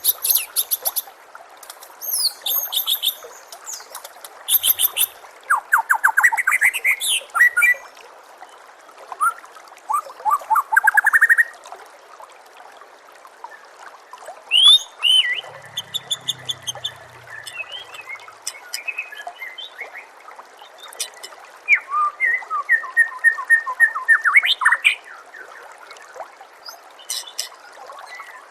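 White-rumped shama (murai batu) singing a varied song in bursts: high whistles, fast rising trills and rapid strings of notes, with short pauses between phrases. A steady trickle of running water hisses underneath.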